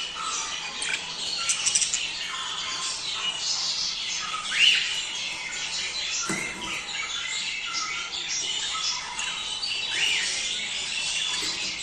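A flock of budgerigars chattering and warbling without a break, with louder rising squawks breaking through a few times.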